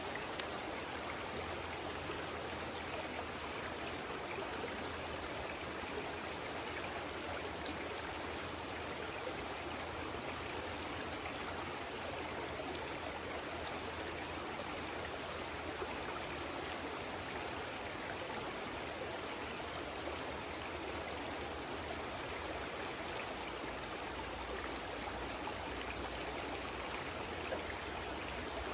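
Flowing stream water rushing steadily and evenly, with no change throughout.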